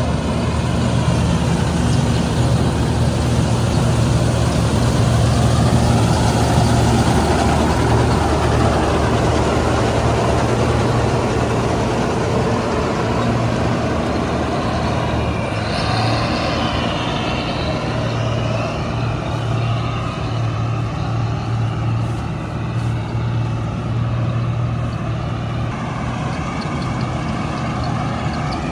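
Heavy diesel engine of a combine harvester running steadily under load. A higher, wavering whine joins in about halfway through.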